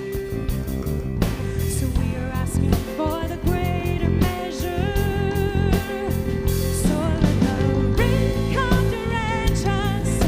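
Worship band playing: a sung melody with vibrato over guitar and drums.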